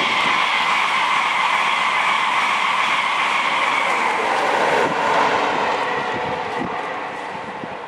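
A train passing at speed on the main line: a loud steady rush of wheels on rail, sinking slowly in pitch and fading from about five seconds in as it draws away.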